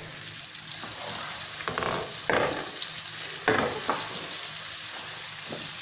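Small whole onions sizzling in spiced oil in a pan, stirred with a silicone spatula, with a few louder stirring strokes about two and three and a half seconds in. The onions are just starting to turn translucent.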